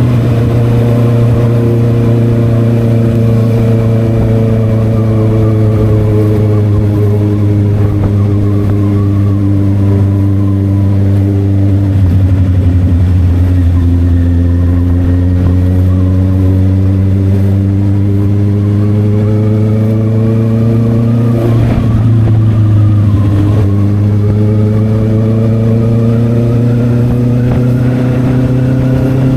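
Honda CB650R inline-four engine and SC Project exhaust under way. The engine note falls steadily as the bike slows, then rises twice as it accelerates again, with a brief break between the two rises like a gear change. A steady low wind rumble runs underneath.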